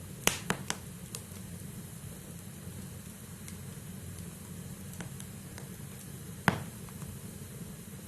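Wood fire burning in a fireplace: a steady low hiss and rustle of burning logs, broken by sharp crackles and pops. A quick cluster of pops comes in the first second, and one loud pop about six and a half seconds in.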